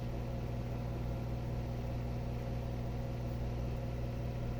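A steady low hum, even in level throughout, with no other sounds standing out.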